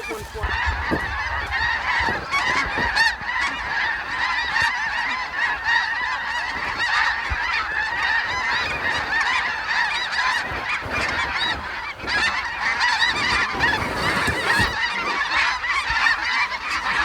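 A large flock of snow geese calling overhead: a dense, continuous chorus of many overlapping high honks.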